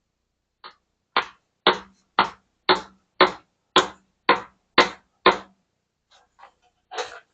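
Hammer blows on metal during wheel bearing and hub work: a steady run of nine heavy strikes about two a second, with a lighter tap before them and a few lighter, uneven knocks after.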